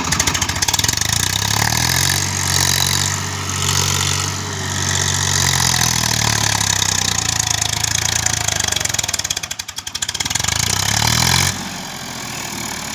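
Swaraj tractor's diesel engine revving hard under load while trying to pull free of sand. Its pitch climbs in the first couple of seconds and holds high, dips briefly near ten seconds, then drops back to idle shortly before the end.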